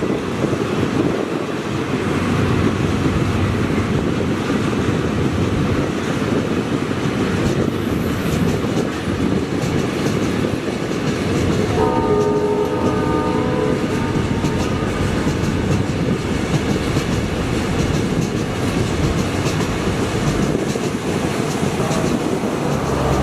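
A train running on the rails with a steady rumble and clatter. About halfway through, its horn blows one chord for about two seconds.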